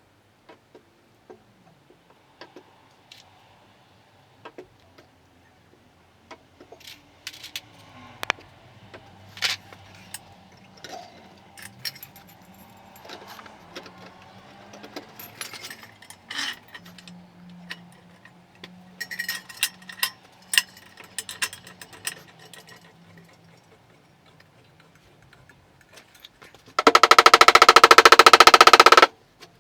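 Scattered metallic clicks and knocks of body-repair tools working on a car panel, then a loud, rapid rattling burst of about two seconds near the end.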